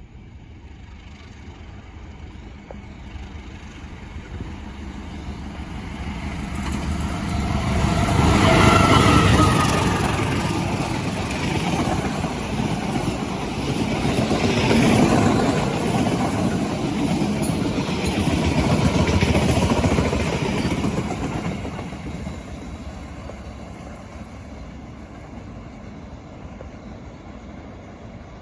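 A train hauled by a diesel-electric locomotive passing by: it grows louder, stays loud for about twelve seconds of wheel and engine noise, then fades away. About nine seconds in, a tone drops in pitch as the locomotive goes past.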